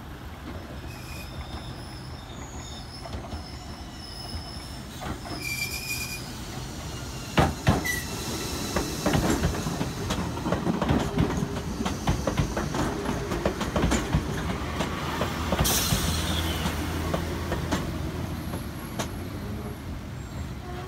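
Enoshima Electric Railway (Enoden) train passing close by, its wheels clacking over the rail joints with two sharp knocks as it draws level. A brief high wheel squeal comes about three-quarters of the way through.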